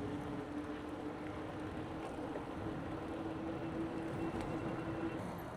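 Wind and rolling noise from riding a bike along a paved path, with a steady low hum that stops near the end.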